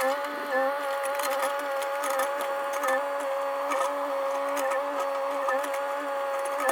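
Mini excavator's engine and hydraulics running steadily, a constant whine with scattered clicks and knocks from the machine working.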